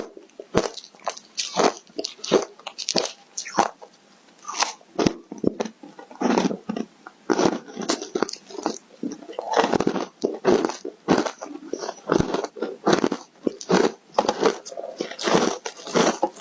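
Close-miked biting and chewing of crunchy foam ice coated in matcha powder: a rapid run of sharp, brittle crunches, several a second.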